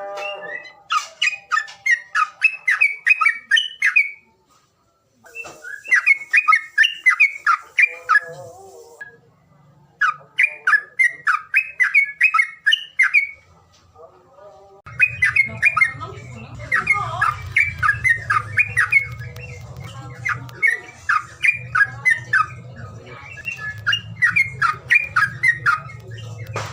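A bird's harsh chattering call: rapid runs of sharp repeated notes in bouts of a few seconds with short pauses, running almost without a break in the second half. A low steady hum comes in about halfway through.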